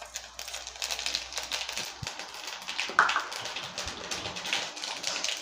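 Fennel seeds crackling and sizzling in hot oil in a kadai: a dense patter of small pops that starts suddenly as the seeds hit the oil.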